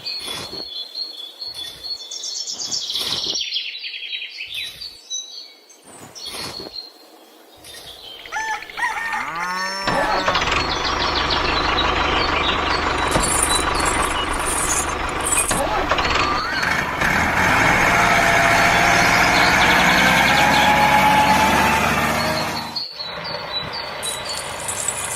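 Birds chirping, then an engine starts up about nine seconds in and runs loudly and steadily for about thirteen seconds, its pitch rising and wavering at times, before cutting off abruptly near the end, leaving the birdsong.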